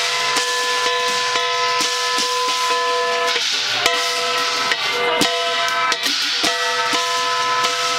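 Chinese ritual band music: a wind instrument holds long, slightly shifting notes over regular drum and cymbal strikes, about two or three a second.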